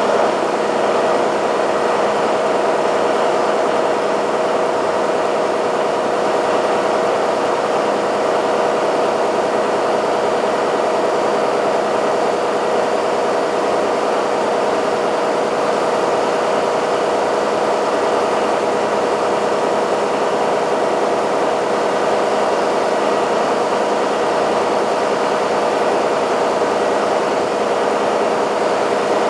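Caterpillar V12 diesel rig engine (600 kW generator set) running steadily at constant speed: a loud, even engine drone with a steady hum.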